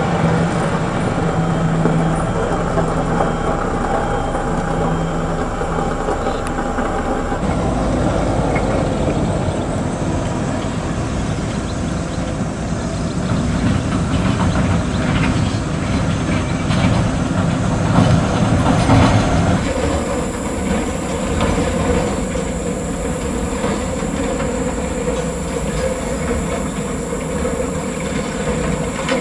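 Heavy vehicle running with a steady mechanical rumble and a held engine tone for the first several seconds; the sound changes abruptly about seven seconds in and again about twenty seconds in.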